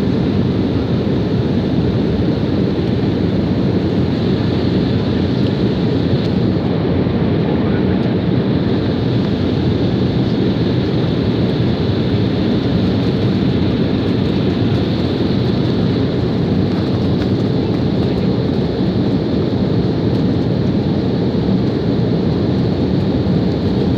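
Steady, loud noise inside a passenger airplane's cabin: engine and airflow noise, most of it low-pitched, unchanging throughout.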